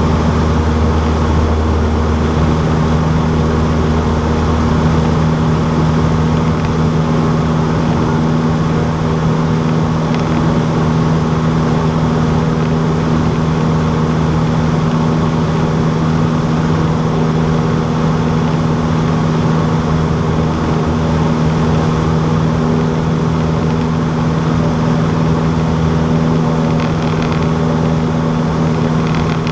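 Cessna 152's four-cylinder piston engine and propeller running steadily, one constant pitch throughout.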